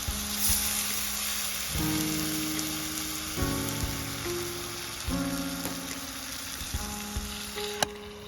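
Food sizzling as it grills over a campfire, with scattered sharp crackles and pops, under background music whose held chords change about every second and a half.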